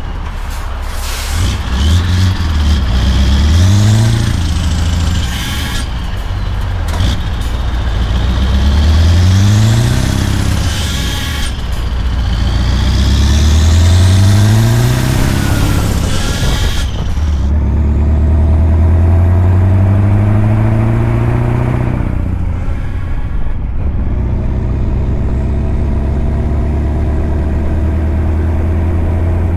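Scania V8 truck engine pulling through the gears: its pitch rises three times, breaking off at each gear change, then holds fairly steady. A high whistle rises along with the engine during the first pulls.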